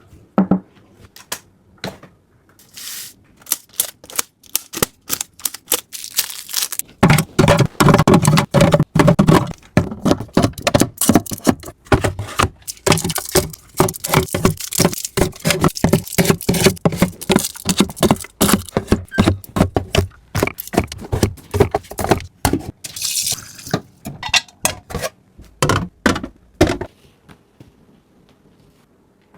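Food and drink containers being handled and set into a fridge: a long run of clicks, knocks and rattles of packaging, with a busy stretch of rapid clatter about a quarter of the way in.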